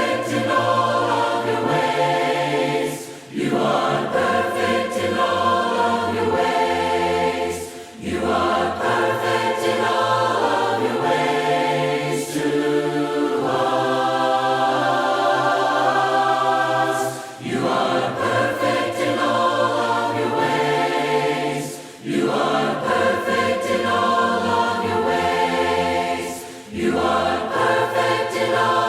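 Choir singing a hymn in harmony, in long phrases with short breaks between them.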